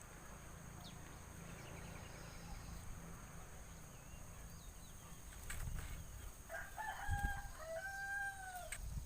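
A rooster crowing during the last few seconds: one long call broken into arched, rising-and-falling segments over a low rumble, with a few faint high chirps earlier on.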